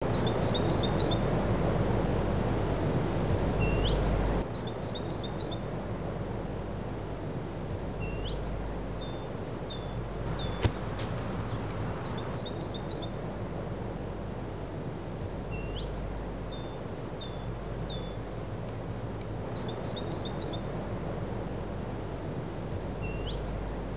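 Birds chirping in short repeated phrases, quick runs of about four notes alternating with single upward-sliding calls, over a steady outdoor background noise that drops after about four seconds.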